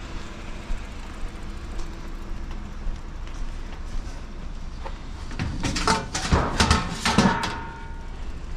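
Vehicle running with a steady low rumble. In the second half comes a burst of clattering knocks with some ringing, squeaky tones, the loudest part.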